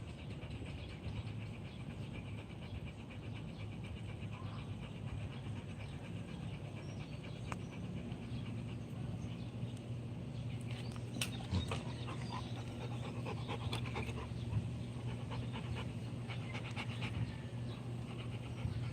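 A Rottweiler panting steadily over a steady low hum, with a few faint clicks about halfway through.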